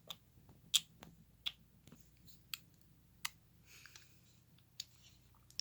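About ten faint, sharp clicks and taps at irregular intervals, the strongest about three-quarters of a second in.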